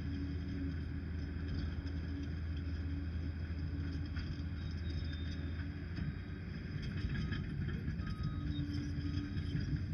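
Liebherr PR 746 crawler dozer's diesel engine running steadily under work, a deep continuous drone that eases slightly about halfway through, with a few faint short high tones in the second half.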